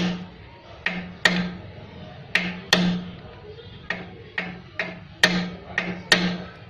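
A run of sharp knocks or taps, roughly two a second and unevenly spaced, some louder than others.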